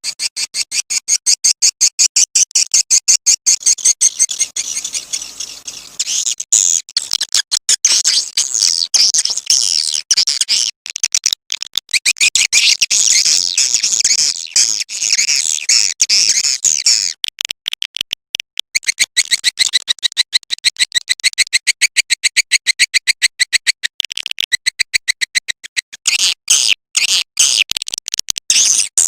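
Recorded swiftlet call ('suara panggil walet'): dense, rapid trains of high chirps and twitters, repeating without pause, the pattern changing a few times. This is the lure call played to attract edible-nest swiftlets to a nesting house.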